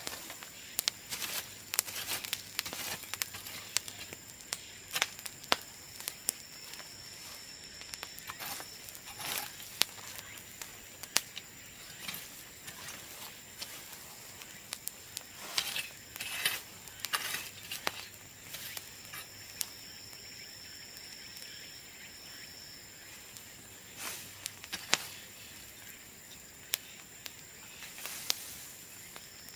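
Bonfire of cut bamboo crackling, with frequent irregular sharp pops and clicks.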